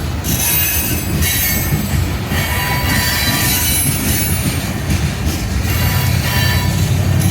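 Coal train cars rolling past with a steady low rumble of wheels on rail, and high wheel squeal rising and fading several times.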